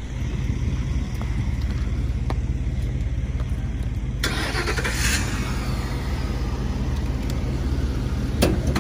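Ford Crown Victoria's V8 engine idling steadily with a low hum. A brief rushing noise comes about four seconds in, and a sharp knock comes just before the end.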